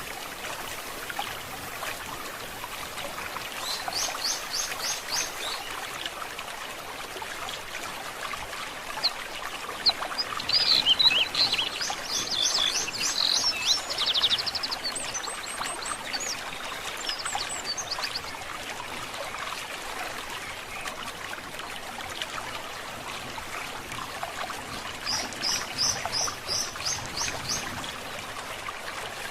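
A stream burbling steadily, with songbirds calling over it: a quick run of repeated high notes about four seconds in, a louder burst of mixed chirps and trills in the middle, and another quick run of notes near the end.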